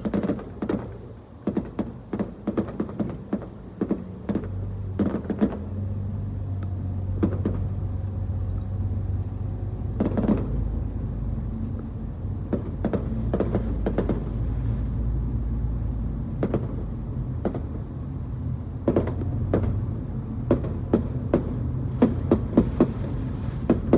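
Fireworks going off in an irregular series of sharp bangs, some close together, others a second or more apart, over a steady low hum.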